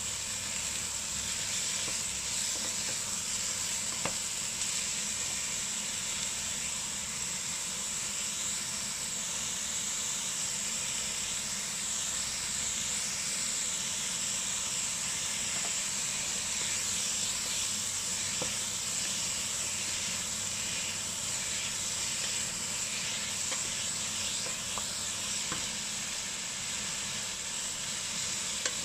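Celtuce strips sizzling steadily as they stir-fry in a pot. A few faint clicks come from the wooden spatula against the pan.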